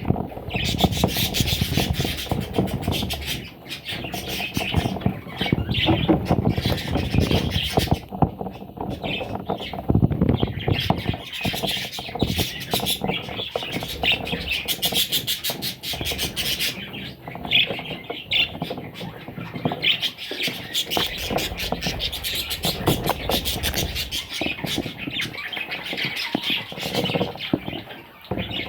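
Parrot chicks squawking and squealing almost without pause in high, shrill calls, with many short clicks and a low rumbling underneath.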